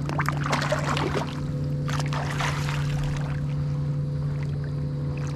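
Water splashing and bubbling for the first few seconds as a person goes down into the lake, over a steady low hum.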